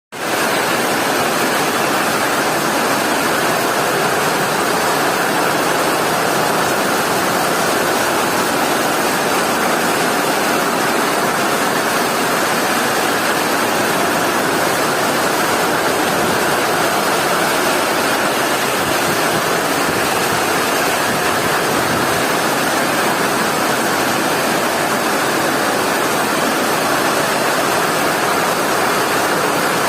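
Rain falling, a steady, unbroken hiss.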